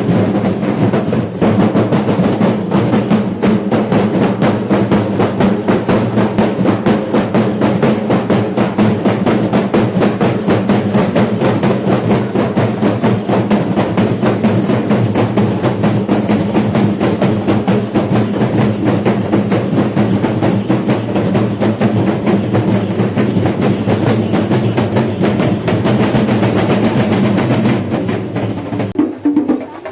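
A percussion ensemble of chenda drums beating fast and densely without pause, over a steady low drone. The drumming thins out near the end.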